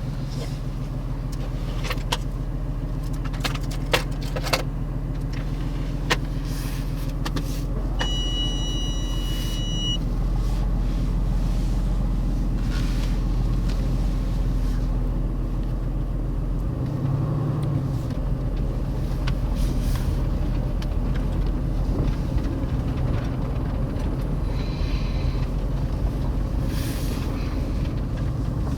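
Mercedes-AMG GT C Roadster's 4.0-litre twin-turbo V8 running steadily at low revs, without revving. A few sharp clicks come in the first several seconds, and a two-second electronic beep comes about eight seconds in.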